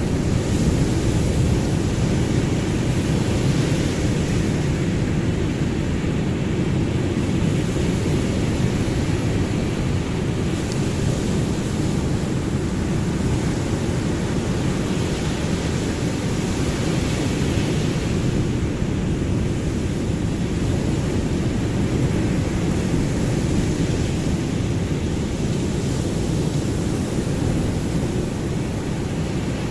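Ocean surf as a steady low rumble of breaking waves, with slow, gentle swells in the hiss.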